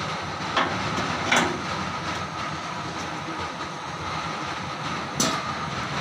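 Steady machinery noise with a faint whine, broken by three sharp metallic knocks.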